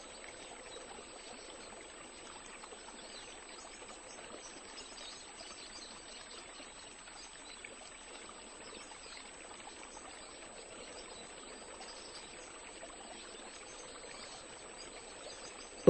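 Faint, steady rushing of water, even and unbroken.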